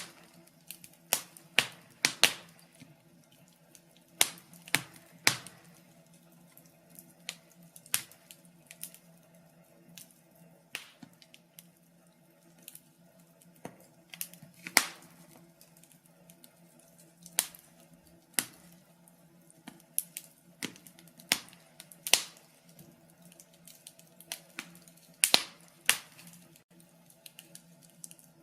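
Wood fire crackling, with irregular sharp pops and snaps a few times a second over a faint low hum.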